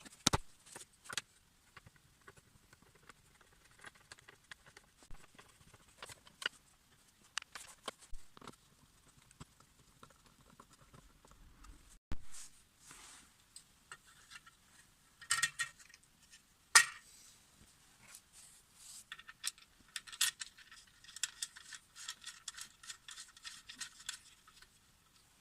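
Hand work with small metal tools and parts: scattered clicks, knocks and light metallic clinking and rattling, busiest in the second half.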